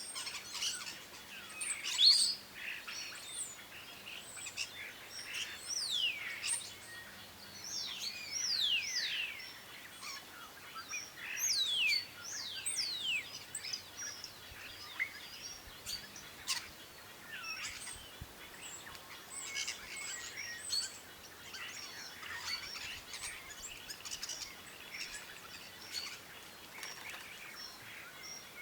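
Birds chirping and calling: many short chirps and quick falling whistles, the whistles most frequent between about 6 and 13 seconds in.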